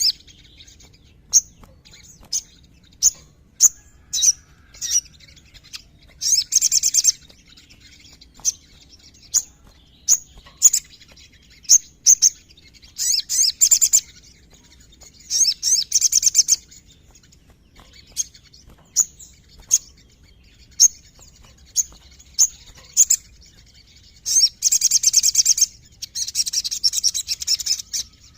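Sogon (sogok ontong) sunbird singing: sharp, high chips about once a second, broken by several rapid high trills of a second or two each, two of them running together near the end.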